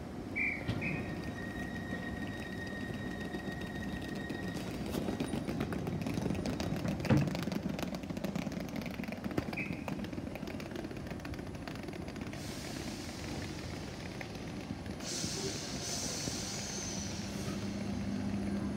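Greater Anglia electric multiple unit standing at the platform with a steady hum, a few short high beeps and a held high tone in the first seconds, and a single knock about seven seconds in. A hiss starts about two-thirds of the way through and grows louder a few seconds later.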